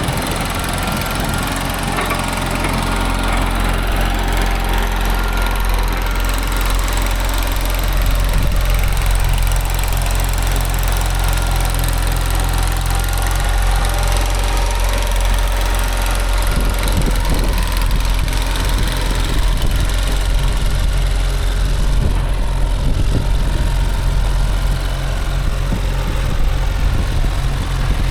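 Diesel engine running steadily at a constant speed, a little louder from about eight seconds in.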